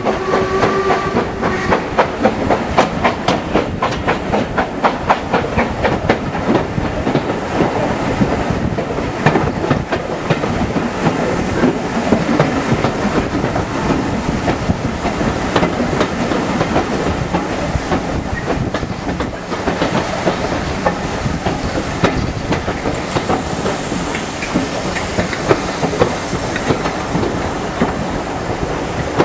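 Steam-hauled passenger train running steadily, heard from an open carriage window: a continuous rumble with rapid wheel clicks over the rail joints.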